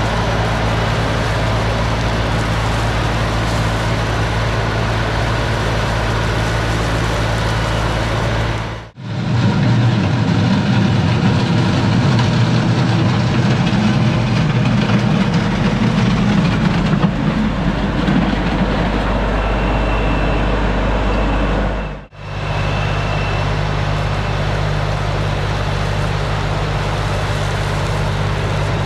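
LS MT357 tractor's diesel engine running steadily with a low, even hum, in three stretches broken by abrupt cuts at about 9 and 22 seconds. In the middle stretch it is louder and rougher.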